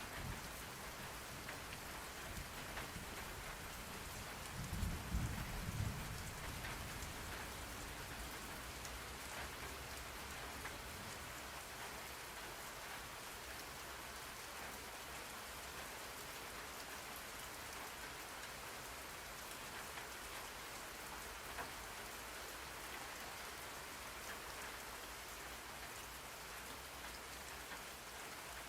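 Steady rain falling, an even hiss of drops, with a brief low rumble of thunder about five seconds in.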